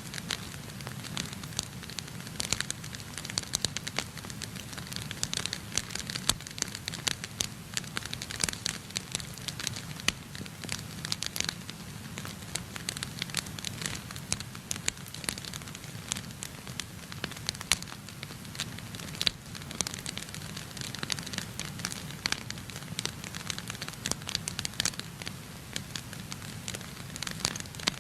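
Wood fire burning in a fireplace, with many sharp, irregular crackles and pops over a steady low rumble.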